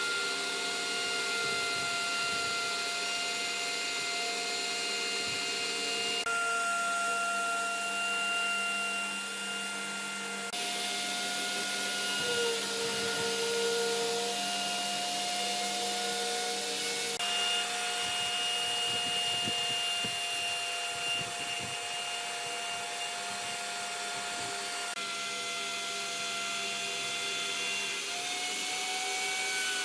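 An electric power tool running continuously with a steady whine, its pitch shifting slightly at abrupt breaks every few seconds.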